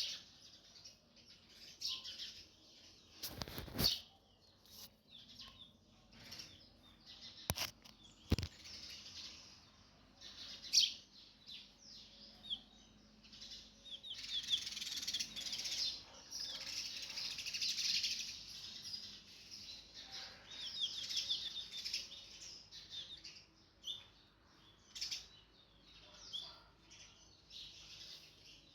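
Sunbirds chirping and twittering in high, thin calls, with runs of rapid trilling in the middle. A few sharp thumps sound in the first third.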